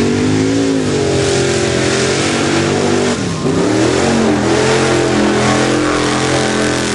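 Mud bog race truck's engine revving hard at full throttle through the mud pit. The pitch dips sharply about three seconds in, then climbs again and holds high.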